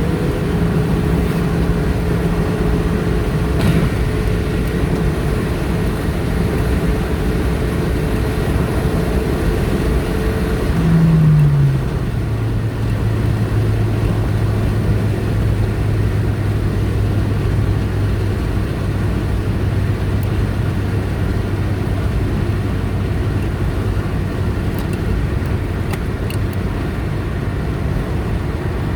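Car driving on a highway, with steady engine hum and tyre and road noise. About eleven seconds in, the engine note swells briefly and then drops to a lower steady pitch.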